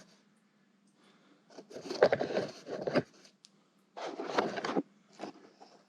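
Scraping and rustling of motorcycle parts being handled during work on the handlebar and front end. It comes in two bursts, about a second and a half in and again about four seconds in, with a few short ticks, over a faint steady hum.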